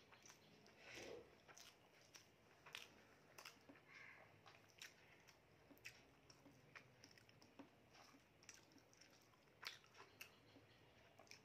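Quiet chewing by a person eating rice and sautéed greens by hand, with scattered small wet mouth clicks.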